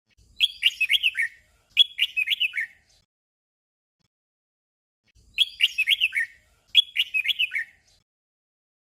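Red-whiskered bulbul song: a short phrase of quick, fluting, warbled notes sung twice in a row, and after a pause of about two and a half seconds the same doubled phrase again.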